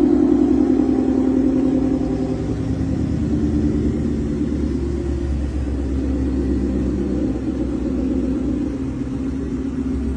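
Sports car engine running with a steady, deep exhaust rumble that gradually gets quieter.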